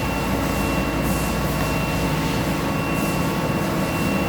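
Steady industrial machinery running in a machine shop: a constant hum with thin, steady high-pitched tones over it, unchanging throughout.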